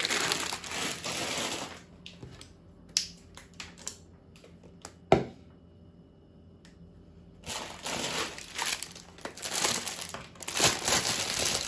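Plastic food packets crinkling as they are handled, with scattered clicks and one sharp knock about five seconds in, a quieter moment, then more crinkling near the end.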